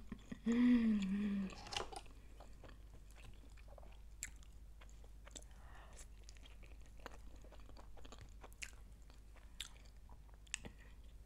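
Close-miked chewing of a vegetable-and-cheese quesadilla: quiet, scattered wet mouth clicks and soft crunches. A short vocal sound comes just at the start.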